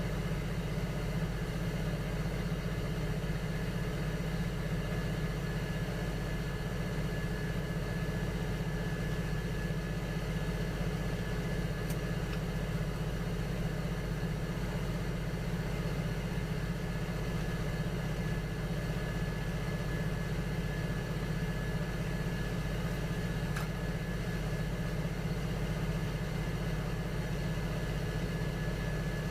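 Electric potter's wheel motor running with a steady, even hum while small vases are thrown, with two faint ticks along the way.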